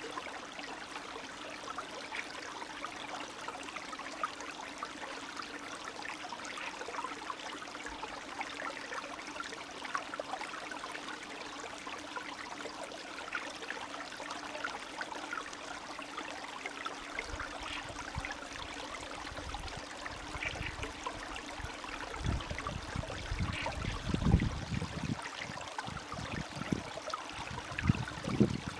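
Spring stream babbling and trickling steadily. From a little past the middle, irregular low rumbling thumps come and go, the loudest near the end.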